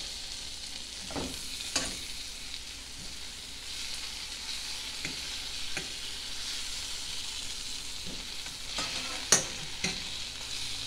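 Flour-dredged chicken livers sizzling in butter and oil in a metal skillet, while a fork turns them over, clicking and scraping against the pan several times. The sharpest knock comes about a second before the end.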